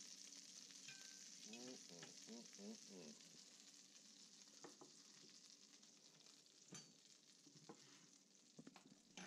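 Venison steaks frying in olive oil and butter in a skillet, a faint steady sizzle that continues as the steaks are lifted out with a fork. A few faint squeaks come about two seconds in, and light clicks come later on.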